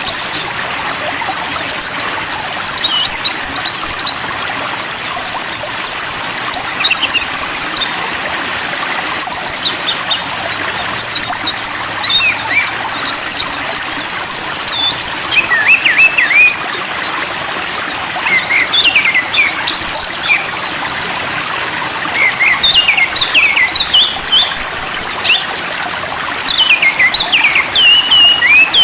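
Songbirds chirping and singing in rapid clusters of short, high, mostly downward-sliding notes over a steady rushing background hiss like flowing water.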